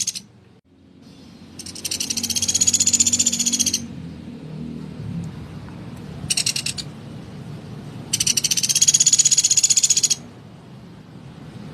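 Pelatuk beras woodpecker giving harsh, rapid rattling calls: two bursts of about two seconds each with a short burst between them.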